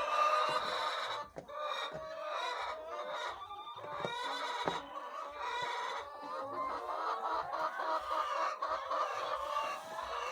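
A flock of laying hens clucking and calling steadily, many voices overlapping.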